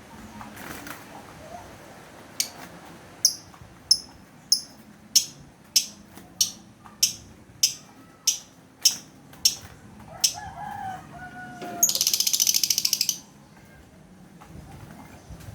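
Lovebird giving a run of about a dozen sharp, high chirps, evenly spaced about twice a second. A lower, gliding crowing call follows, then about a second of rapid, high buzzing chatter.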